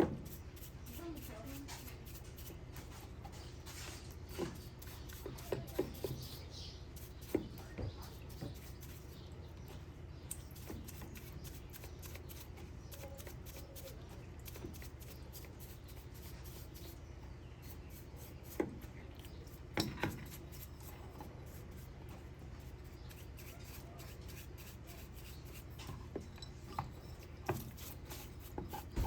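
Scattered light clicks and knocks, as of small parts or tools being handled, over a steady low hum. The knocks come in small clusters, the sharpest a pair of knocks about two-thirds of the way through.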